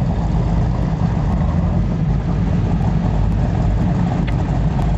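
Powerboat engines running steadily under way, heard from aboard as a loud, even low rumble mixed with wind and water noise.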